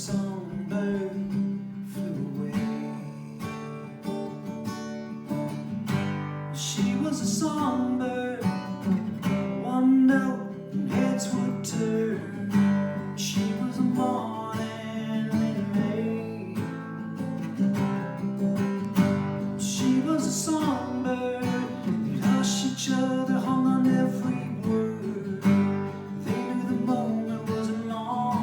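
Acoustic guitar playing an instrumental break: strummed chords, with a melody line moving over them from about six seconds in.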